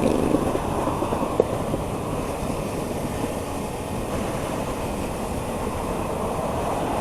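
Kawasaki Ninja 300's parallel-twin engine running steadily while the bike is ridden, under a steady rush of wind noise on the microphone.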